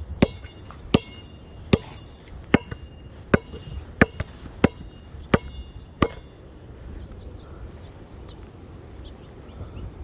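A run of about nine sharp knocks, evenly spaced about three-quarters of a second apart, some with a short high ring after them. They stop about six seconds in.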